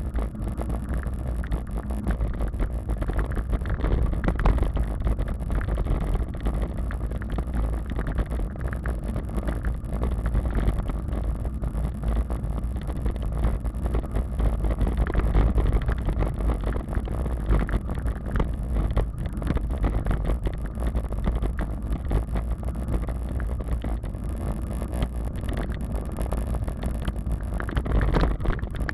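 Wind rumbling on the microphone of a moving bicycle, with road noise and small rattles from riding over the surface.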